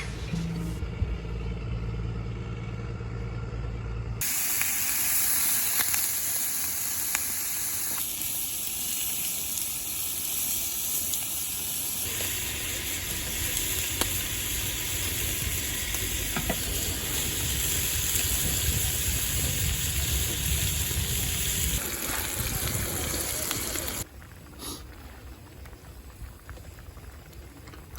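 Food sizzling steadily on hot cookware, heard in a few short clips that change abruptly, after a low hum in the first few seconds. The sizzle stops abruptly about six seconds from the end, leaving a quieter background.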